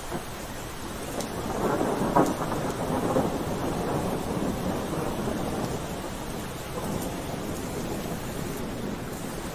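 Steady rain, with a roll of thunder that swells about a second and a half in, peaks with a sharp crack, and rumbles away over the next few seconds.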